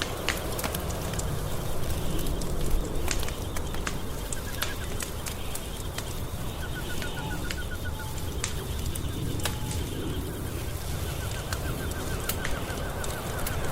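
Wood fire burning in a fireplace: a steady low roar with frequent sharp crackles and pops. Faint, rapid chirping trills come in several times, about halfway through and again near the end.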